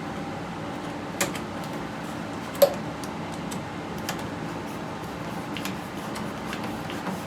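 Scattered small clicks and knocks of parts being handled and fitted while a water heater power vent fan is put back together, the sharpest click about two and a half seconds in, over a steady background hum.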